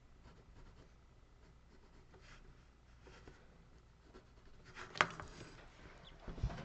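Faint scraping and rubbing of a hand tool on a wooden block, with a single sharp click about five seconds in and a few low thumps near the end.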